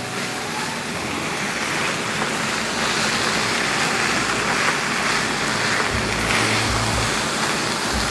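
Fried rice sizzling in a hot frying pan as it is stirred with a spatula: a steady hiss that gets a little louder after about two seconds, with a few low bumps near the end.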